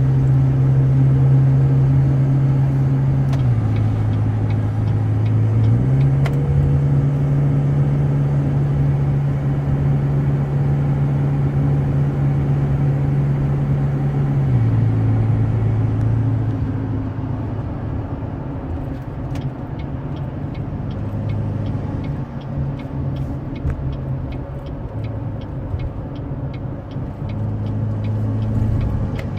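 Cabin drone of a 2016 Chevrolet Colorado's 2.8 L Duramax four-cylinder turbodiesel with an S&B cold air intake, heard from inside the cab while driving. The engine note drops in pitch about 3 s in, comes back up about 6 s in, and drops again about 15 s in, then runs a little quieter. A regular light clicking runs through the last ten seconds.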